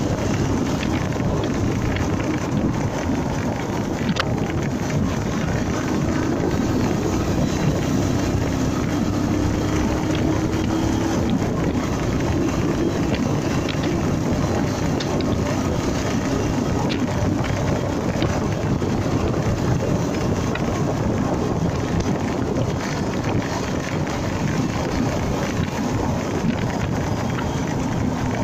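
Wind rushing over the microphone on a moving Honda MegaPro Primus motorcycle, with the steady running of its single-cylinder engine beneath. The wind noise is steady and low.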